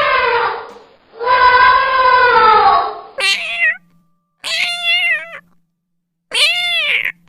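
Cat meowing: a long drawn-out meow trails off and falls in pitch, a second long meow follows, then three short meows that each rise and fall in pitch.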